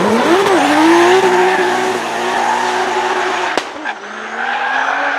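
Drift car engine revving up hard and held at high revs, with tyre noise from the spinning wheels. Just under four seconds in there is a sharp click and a brief dip, then the engine note climbs again.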